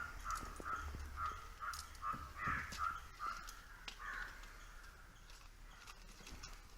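A bird calling in a quick run of short notes, about three a second, that fades out after about four seconds.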